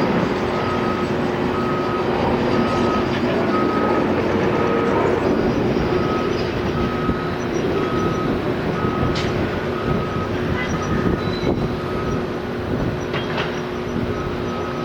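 Construction vehicle's reversing alarm beeping steadily, about two beeps a second, over the steady running of a heavy engine.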